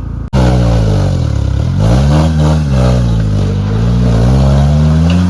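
Engine of a 4x4 off-road competition vehicle revving, its pitch rising and falling again and again as the throttle is worked. The sound starts abruptly about a third of a second in.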